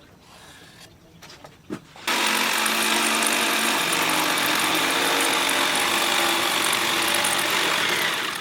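An electric power tool, such as a drill or grinder used in knife making, switches on abruptly about two seconds in and runs steadily at full speed. Before it starts there are only a few faint knocks.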